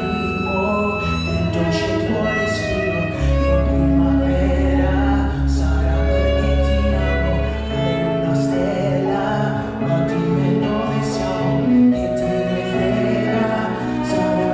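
Live music from a small ensemble with violin and piano, over long sustained low bass notes.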